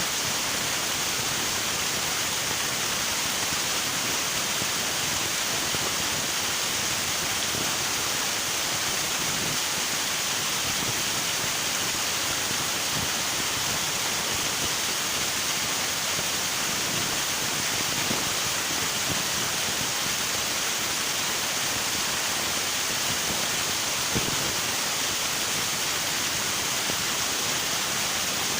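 River water rushing and splashing over rocks in a steady, unbroken hiss, with small gurgles coming through underneath.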